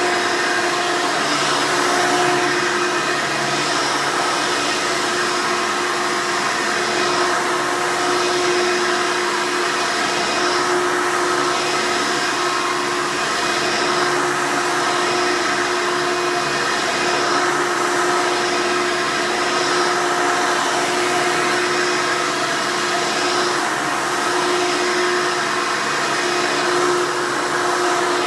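Hoover Elite upright vacuum cleaner running steadily: an even rush of air under a steady motor hum and whine.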